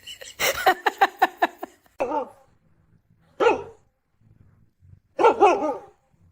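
A dog barking: a quick run of about eight barks in the first two seconds, then single barks and a short cluster of barks a few seconds later.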